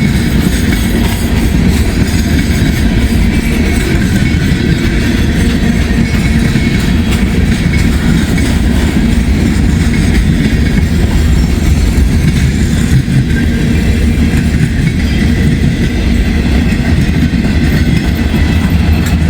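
Freight train cars rolling past on the track, a steady loud rolling noise from the wheels on the rails.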